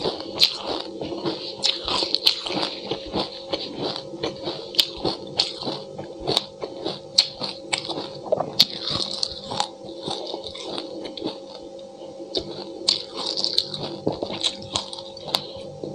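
Close-up chewing and crunching of a mouthful of black and white sesame seeds: a dense, irregular run of small crisp clicks and wet mouth sounds.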